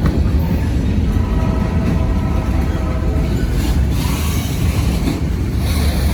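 Freight train cars rolling past, a steady heavy rumble of steel wheels on rail. A faint pitched squeal comes in from about one to three and a half seconds, and high hissing squeals follow about four seconds in as the wheels work through the diverging turnout.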